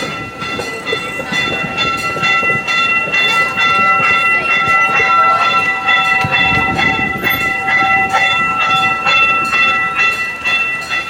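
Gas-powered replica steam train running on its track, its wheels clicking rapidly and steadily over the rails under a continuous high-pitched squeal.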